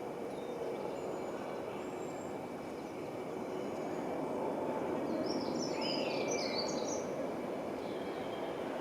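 Pair of class 458 electric trains approaching the crossing: a steady low rumble that grows slightly louder past halfway. A few short bird chirps come about five to seven seconds in.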